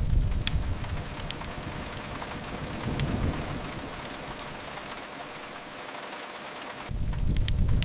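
Steady rain with the sharp, scattered crackles of a wood fire. A low rumble swells at the start, again around three seconds in, and near the end.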